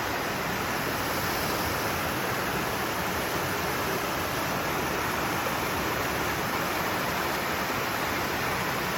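Fast-flowing woodland stream, its water rushing steadily and evenly.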